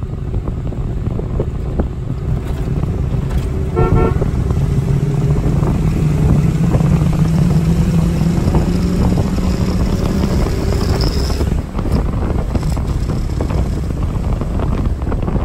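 A 1961 Corvette's 283 V8 running under way, heard from the open cockpit with wind and road noise. The engine note grows stronger from about five seconds in and eases off after about ten. A short tooting tone sounds about four seconds in.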